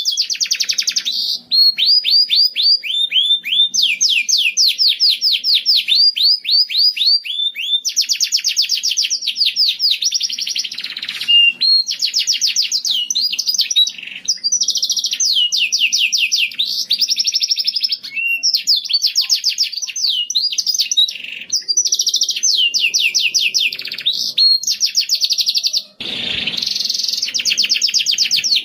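A songbird singing in long runs of rapid, high, downward-sliding chirps, several a second, each run lasting one to three seconds with short breaks between.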